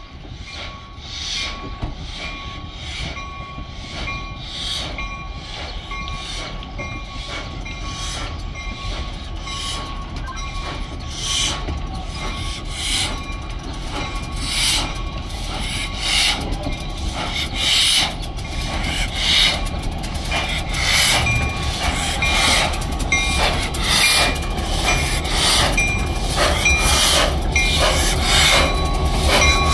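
N&W 611, a streamlined 4-8-4 steam locomotive, and its tender rolling slowly past on the rails while being towed, not under their own power. A clank comes about every second and a half over a low rumble, with a thin steady whine. The sound grows louder as the engine and its running gear draw level.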